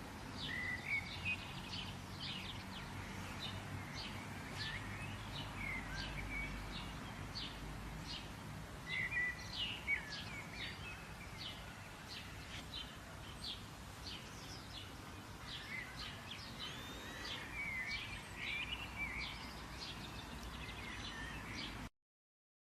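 Several songbirds chirping and trilling in quick, overlapping calls over a low, steady outdoor background noise. The sound cuts off suddenly near the end.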